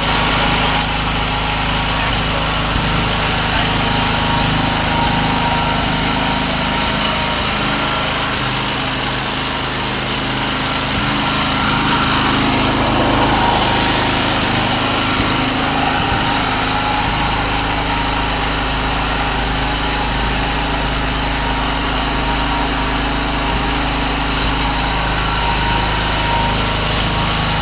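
Xgen XG6500 5 kW portable petrol generator running steadily at a constant engine speed.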